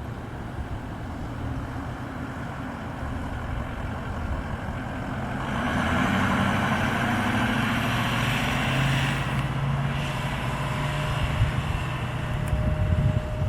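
Heavy truck's engine running as it drives past, growing louder about five to six seconds in along with a rush of road noise, then easing off.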